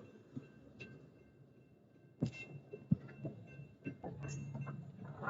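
Slow-moving intermodal freight train passing over a grade crossing: scattered low knocks and thumps with a faint hum, the sharpest knocks a little after two seconds and near three seconds in.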